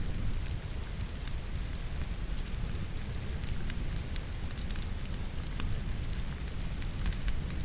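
Wood logs burning in a fireplace, crackling with frequent sharp, irregular pops over a steady low rumble, mixed with the even patter of falling rain.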